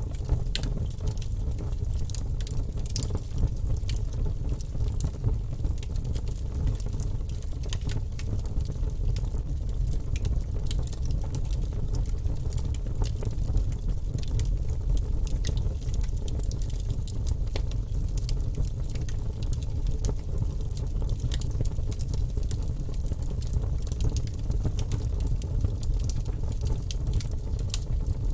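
Fire burning in a fireplace: a steady low rumble with frequent small crackles and pops throughout.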